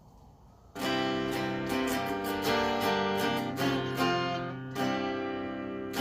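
Solo acoustic guitar starts playing chords about a second in, a steady run of plucked notes.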